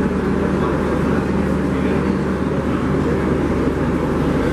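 Steady low rumble and hum of machinery beside a standing passenger train, running without a break.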